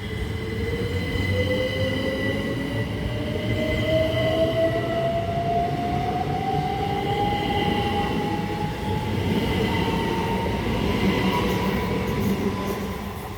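GWR Class 387 electric multiple unit pulling away and accelerating, its traction motors whining in a pitch that rises steadily throughout, over a low rumble of wheels on the track.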